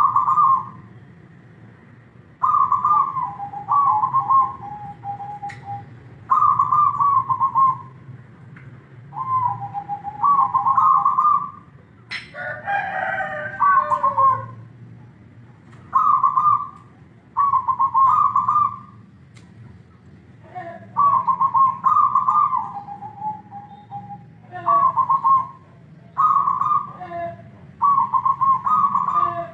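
Zebra dove (perkutut) singing: short phrases of rolling coos repeated every two seconds or so, several ending on a lower held note. About twelve seconds in, a different call from another bird, falling in pitch, cuts across.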